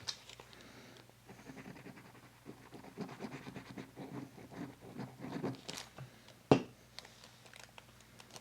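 Paper and card being handled and shuffled by hand, soft scratching and rustling with small clicks, and one sharp knock about six and a half seconds in.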